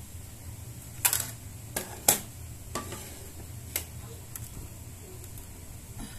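A stack of plates being set down on a table: a handful of sharp clinks and clatters over about three seconds, the two loudest a second apart, over a steady low hum.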